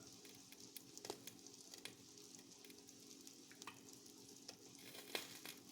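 Quesadilla frying in butter in a pan, a faint sizzle with scattered crackling pops, one louder pop about five seconds in, over a steady low hum.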